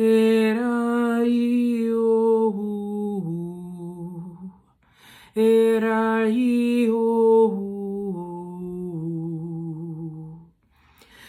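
A woman's unaccompanied wordless singing in light language: two long phrases of held notes, each stepping down in pitch, with a short breath break between them.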